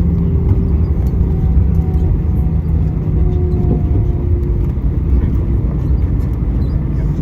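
Cabin noise inside an Airbus A320 on the ground after landing: a steady low rumble from the wheels and idling engines, with a few hums that shift slightly in pitch.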